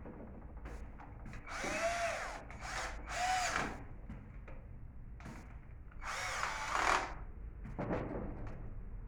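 Three short whirring bursts from a CMI Z1J-GW10-13 electric drill's mechanism during reassembly, each rising then falling in pitch, with clicks of handling in between.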